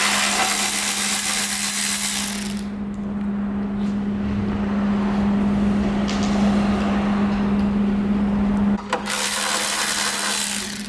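Power tools at work on a car body: a loud hissing burst for the first two or three seconds, quieter running, then another loud burst near the end, over a steady low hum.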